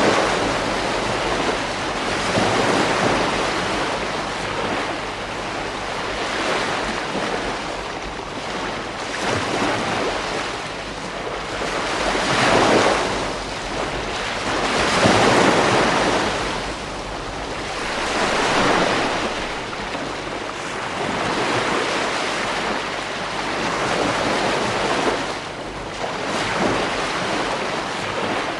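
Ocean waves breaking on a beach, a continuous wash of surf that swells and ebbs every few seconds, with wind on the microphone.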